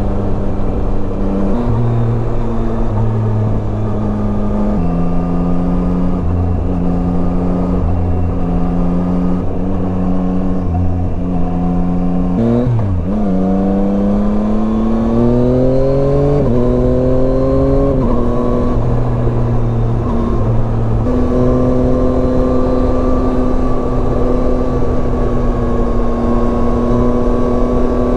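Yamaha Tracer 9's three-cylinder engine running at a steady cruise with small shifts in pitch. About halfway through, the pitch drops briefly and then climbs steadily for several seconds as the bike accelerates, before holding steady again. A constant low rush of wind runs underneath.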